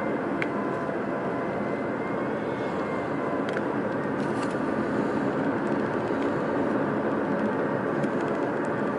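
Steady road and engine noise heard from inside a moving car cabin.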